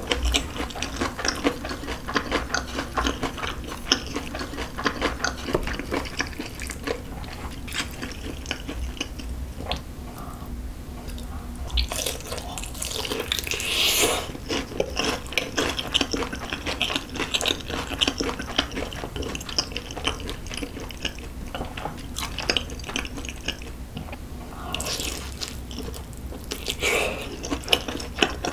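Close-miked chewing and wet mouth sounds of a person eating, with dense little clicks throughout. About halfway through there is a louder bite into a piece of sauced fried chicken.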